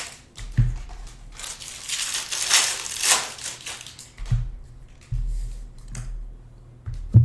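Foil card-pack wrappers and packaging crinkling as they are handled, with several dull thumps on the table, the loudest near the end.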